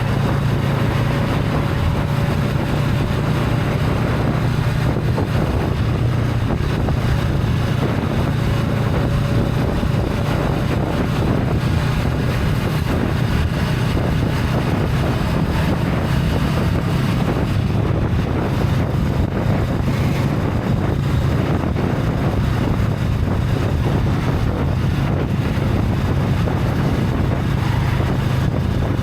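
Honda Rebel 500's parallel-twin engine with its stock exhaust running steadily while riding, with wind noise on the microphone.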